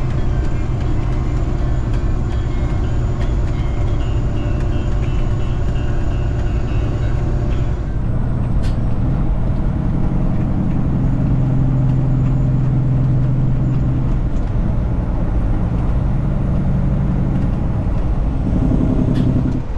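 Semi truck's diesel engine running steadily, heard from inside the cab while driving; its note shifts about eight seconds in, and there are two short clicks.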